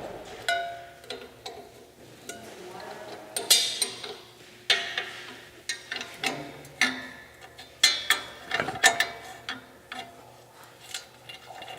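A wrench and Allen key on the steel motor bolts of an abrasive cutoff saw, loosening them. Irregular metallic clicks and clinks, some ringing briefly, with a busier stretch in the middle.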